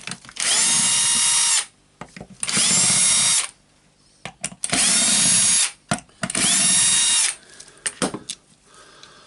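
Electric drill-driver running in four short bursts of about a second each, the whine rising to speed at the start of each, as it backs out four screws from the orbital sander's housing.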